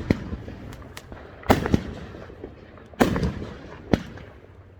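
Fireworks going off in a series of sharp booms, four loud ones over a few seconds with smaller pops between, each booming report trailing off in a low rumble.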